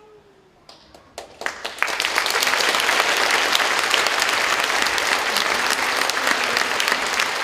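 Audience applauding: a few scattered claps about a second in, swelling within a second into full, steady applause.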